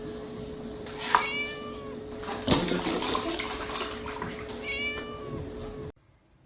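A cat meowing twice with short, high calls, one about a second in and another near the end. There is a knock between them and a steady hum underneath, and everything cuts off suddenly just before the end.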